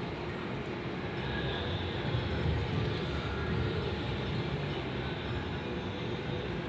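Steady casino-floor din: a low rumble of room noise with faint electronic tones from the slot machines.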